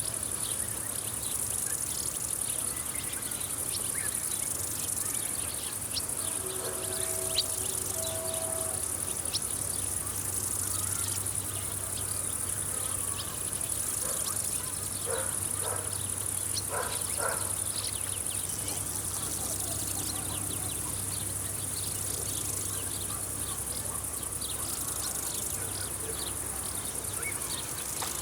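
A chorus of field insects chirring steadily at a high pitch, with many short faint chirps over it and a low steady hum underneath.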